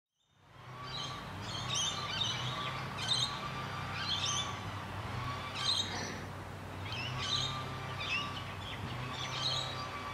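Birds chirping in repeated short bursts, about once every second or so, over a steady low hum.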